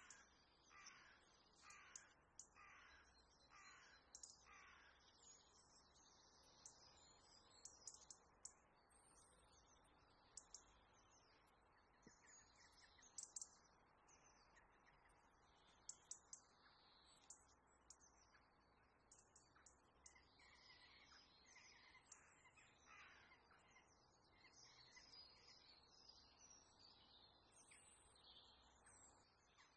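Faint bird calls behind near silence: a run of about five calls in the first few seconds and another group past the middle, with small high chirps throughout and a few faint clicks.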